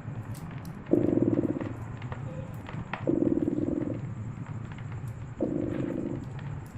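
A cat purring, swelling into a louder purr about every two seconds with each breath, over the scattered pops and crackle of a fireplace fire.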